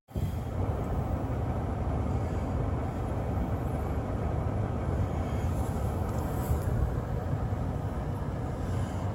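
Gas snow blower's small engine running steadily under load while clearing snow.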